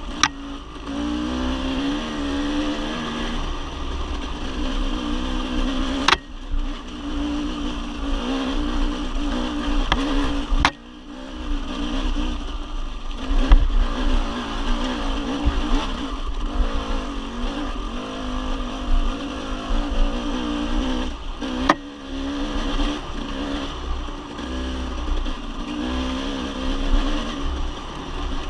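Dirt bike engine running, its pitch wavering as the throttle comes on and off, with a few sharp knocks along the way.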